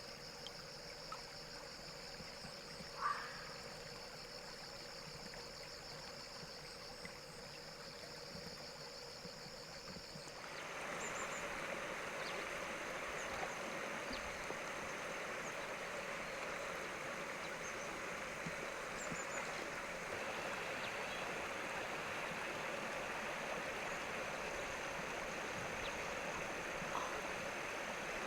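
Flowing river water, a steady rushing that gets abruptly louder about ten seconds in. Over the first part there is a faint, high, rapidly pulsing buzz, and about three seconds in there is a single short sound.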